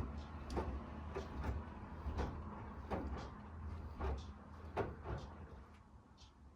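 Miele W1 washing machine running, with a low rumble and irregular knocks and clunks from the turning drum and laundry. Both fade away toward the end as the drum slows.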